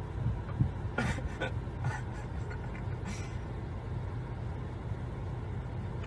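Steady low rumble of a car driving, with a few short clicks or knocks between about one and three seconds in.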